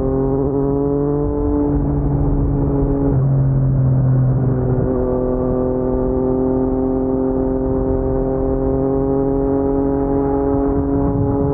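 Yamaha MT-09 three-cylinder engine running through an Akrapovic carbon full-system exhaust at low speed, its note climbing gently. About three seconds in it eases off, then picks up again at a lower pitch and climbs slowly.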